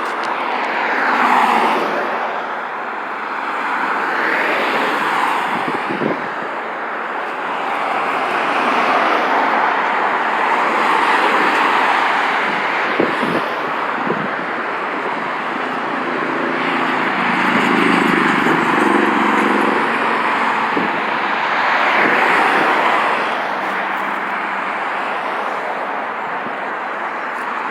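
Road traffic going by: a steady rush of tyre and engine noise that swells and fades several times as vehicles pass.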